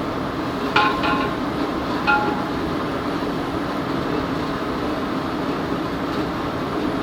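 Steady rushing noise of a large pot of chicken gizzards cooking over a strong gas flame. A metal utensil strikes the pot twice, ringing briefly about a second in and again about two seconds in.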